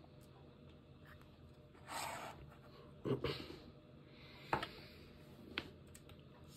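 A short scraping rustle about two seconds in, then a few sharp clicks, like small objects being handled on a desk in a small room.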